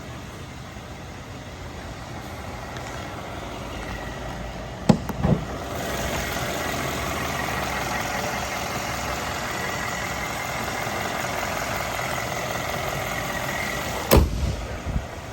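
Mercedes-Benz S550's twin-turbo 4.7 L V8 idling. A couple of sharp latch clicks about five seconds in and the running sound grows louder, as of a car door opening. A heavy door thump near the end, with a few smaller knocks after it.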